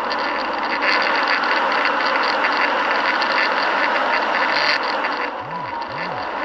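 Steady vehicle and road noise, an even rumble and hiss. Two short low swells rise and fall near the end.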